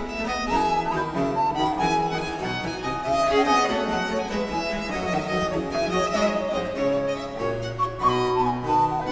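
Baroque chamber ensemble playing, with the baroque violin leading over baroque cello and harpsichord continuo, and the recorder among the parts.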